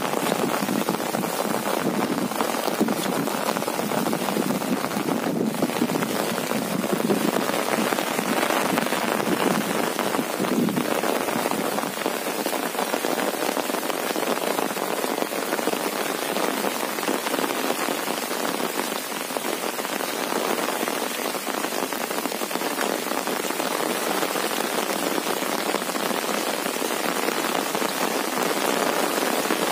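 Steady rain falling on an umbrella held overhead: a dense, even hiss of many small drop hits that keeps up without a break.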